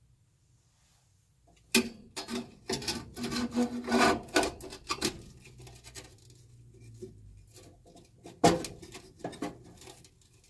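Hands working with hard parts: a quick run of clicks, clatter and scraping about two seconds in, then softer rubbing and handling, with one sharp knock near the end.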